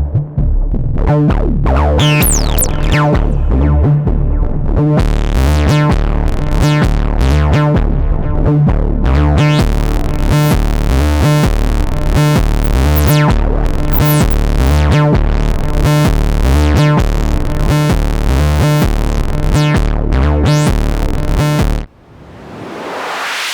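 Eurorack synthesizer sequence played through the SEOK DRIPS 12 dB/oct analog filter: a rhythmic, bass-heavy pattern with filter sweeps gliding up and down. About 22 seconds in it stops abruptly and hiss-like noise sweeps upward through the filter.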